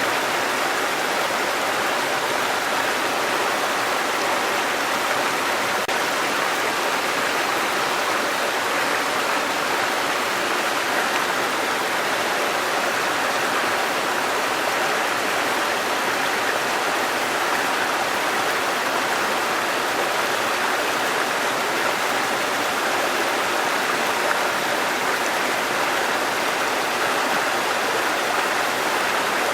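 Waterfall and running water rushing, a steady, even roar.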